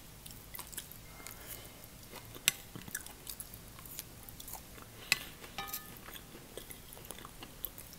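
Quiet chewing and mouth sounds of a person eating glass noodles with chicken. Wooden chopsticks click against a ceramic plate as the noodles are picked up, with two sharper clicks about two and a half and five seconds in.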